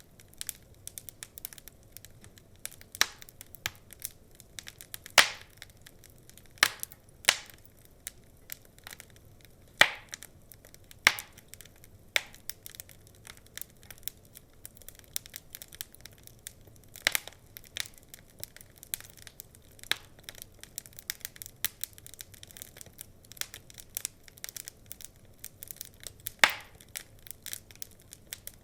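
Burning wood logs crackling: a constant scatter of small, irregular crackles, with sharp, louder pops every few seconds.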